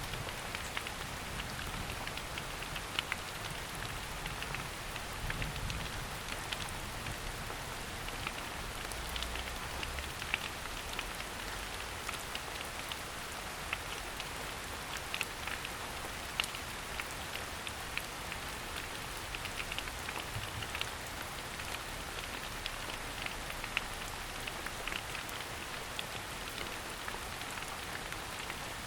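Steady rain falling in a forest: an even hiss with many separate drops ticking close by.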